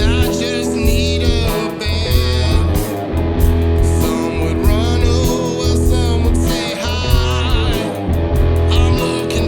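Instrumental break of a blues/Americana song: guitar over a pulsing bass line, with a high lead melody wavering in vibrato.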